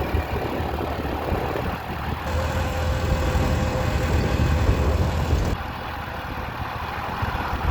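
Motorcycle engine running on the move, with road and wind noise; from about two to five and a half seconds in the sound grows louder, with more hiss and a steady hum.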